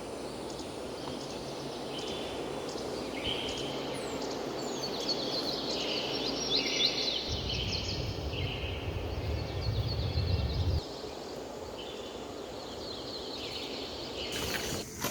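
Forest ambience: birds calling and chirping, with short calls repeating every second or two, over a steady hiss. A low rumble comes in for about three seconds in the middle.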